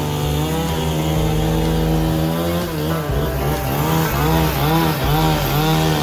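A motor-driven machine running steadily, then revved up and down over and over in the second half, the pitch rising and falling about twice a second.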